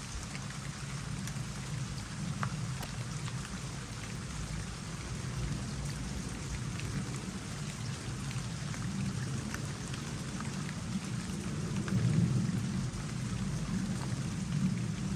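Water trickling into a small pond, with scattered raindrops pattering on the surface over a steady low rumble that swells about twelve seconds in.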